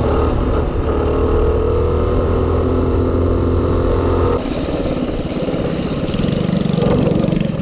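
Minibike engine running steadily under way. About four and a half seconds in, the note drops off and gets quieter, as if the throttle is eased. It builds again toward the end.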